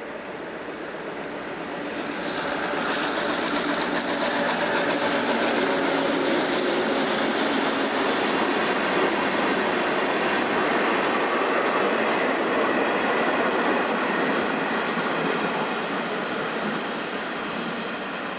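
A train passing. Its rumble and rail noise swell about two seconds in, stay loud through the middle and fade away near the end.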